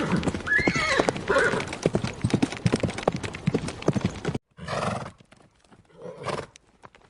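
Horse hooves clopping in an irregular run, with two short whinny calls in the first second and a half. After a brief cut about four and a half seconds in come two short, breathy blasts from the horse, then faint hoof knocks.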